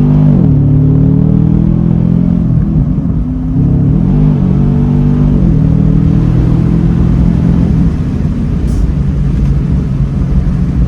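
Tuned Chevrolet Camaro SS's L99 6.2-litre V8 running while driving. Its note shifts up and down several times in the first six seconds, then holds steady at a lower pitch.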